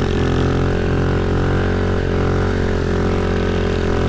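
Pit bike engine running at steady revs while riding, with an even, unchanging drone.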